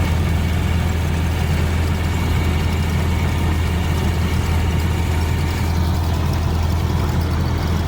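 A steady, low engine drone that holds level throughout.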